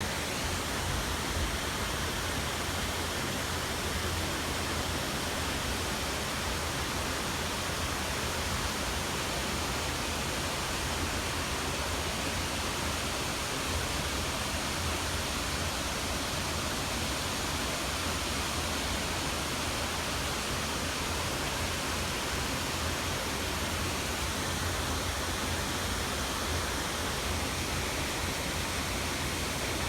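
Waterfall pouring, a steady, unbroken rush of falling water with a deep rumble underneath.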